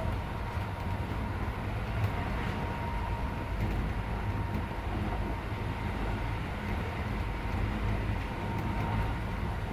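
Keisei 3400 series electric train heard from inside the car while running between stations: a steady low rumble of wheels on rail and running gear, with a thin steady whine.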